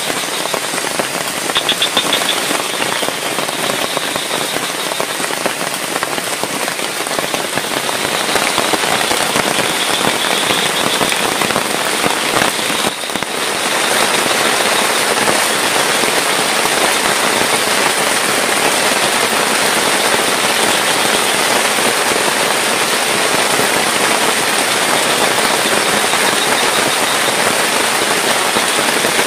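Heavy rain falling steadily in rainforest, a dense even hiss of drops. It dips briefly about halfway, then carries on slightly louder.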